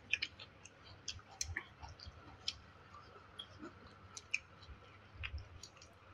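A person eating: soft, irregular wet mouth clicks and lip smacks while chewing, several a second.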